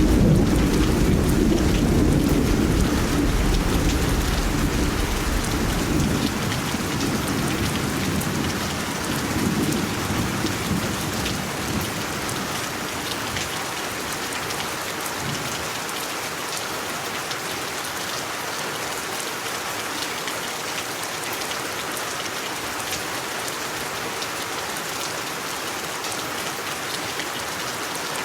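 Steady rain, with a roll of thunder at the start that rumbles on and dies away over about the first ten seconds, leaving only the even hiss of rainfall.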